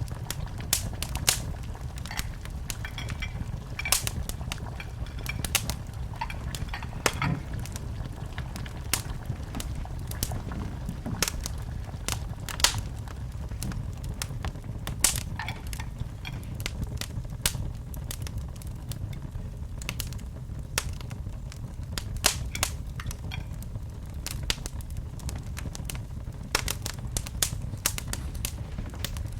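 Wood fire in a fireplace crackling: irregular sharp pops, a few a second, over a steady low rumble.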